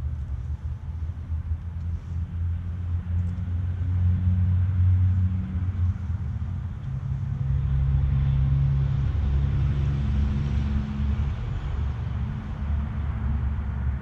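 Low, steady engine rumble of a motor vehicle, swelling about four seconds in and again around the middle before easing slightly.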